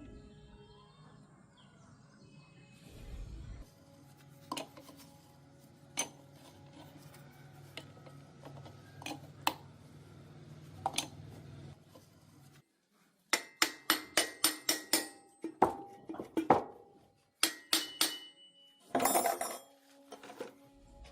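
Metal parts clinking and tapping: scattered single clicks, then, past the halfway point, a quick run of about a dozen sharp metallic strikes followed by a few more clinks and a brief scraping rattle.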